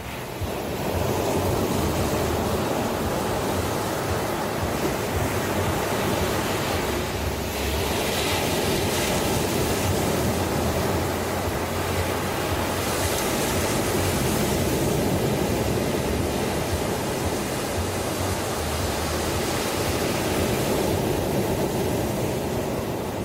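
Ocean surf: a continuous rush of breaking and washing waves, with a couple of brighter hissing surges as waves break, about a third of the way in and again just past the middle.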